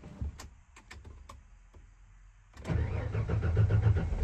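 A few sharp clicks, then about two and a half seconds in the 1994 Ford F-150's 300 cubic inch inline-six cranks and fires up, running with a fast even pulse. It is started with no key in the ignition.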